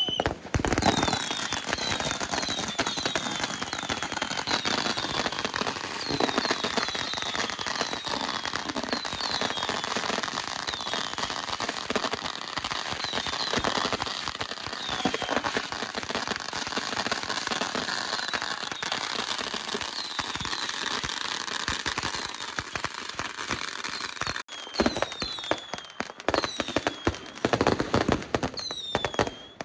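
Fireworks and firecrackers going off without a break: dense crackling and popping laced with many short falling whistles, and louder separate bangs in the last few seconds.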